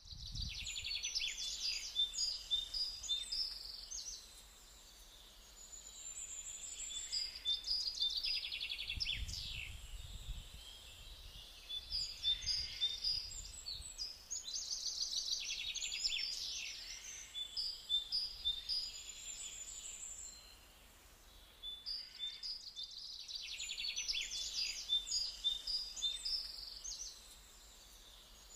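Songbirds singing outdoors: several birds repeating short, high, trilled song phrases a few seconds apart, overlapping one another, over a faint steady background.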